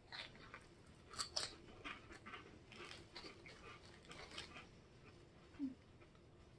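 Crunching and chewing of puffed shrimp chips: a close run of crisp crunches that thins out after about four seconds. Near the end comes a single short low hum.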